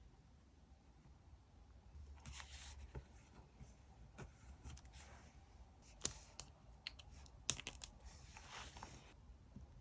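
Faint paper-crafting handling sounds: two short stretches of paper or sticker rustling or tearing, about two seconds in and near the end, with a few sharp clicks or taps between them.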